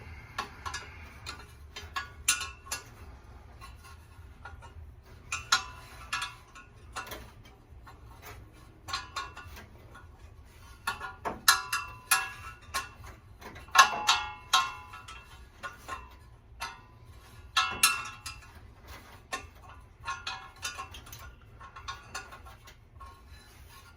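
Hand wrench clicking and clinking against metal in short runs of sharp ticks as it works the engine-fan bolts loose on a Ford 302 V8.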